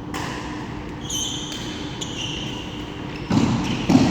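Sneakers squeaking on a badminton court floor, then two dull thuds near the end, over a steady hall hum.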